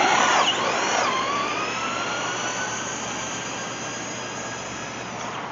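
RC car's motor whining as it drives, its pitch sweeping up and down in the first second, then holding steadier while it gets gradually quieter.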